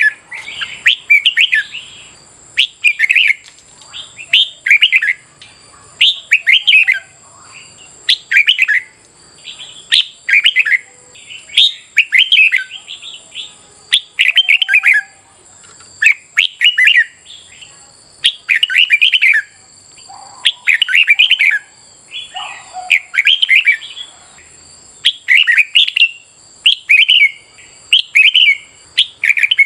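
Red-whiskered bulbuls singing short, loud, chirping song phrases, one after another about every second or two.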